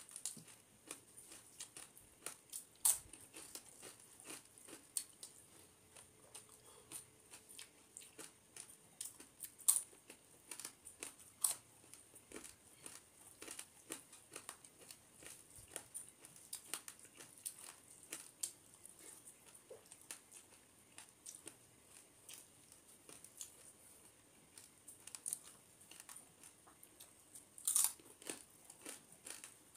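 Close-up eating sounds of a person eating rice by hand: irregular chewing with crisp crunches, from fried papad, among soft mouth and finger sounds. The crunches come at uneven intervals, the loudest a few seconds in, around ten seconds in and near the end.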